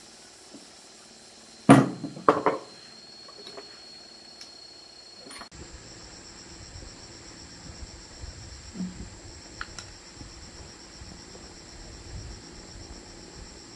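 Metal clanks: two loud ones about half a second apart near two seconds in, with a short ring, like metal tools or engine parts knocked together. From about five seconds in, a steady high insect chirring with faint low knocks.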